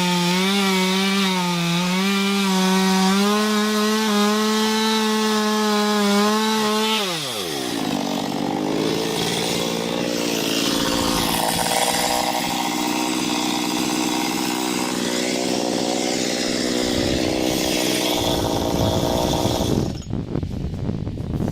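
Small gasoline chainsaw with a 15-inch bar running at high speed in the cut, its pitch wobbling slightly; about seven seconds in the engine speed falls sharply and it carries on at a lower, rougher note. Near the end it cuts off and a few sharp knocks follow.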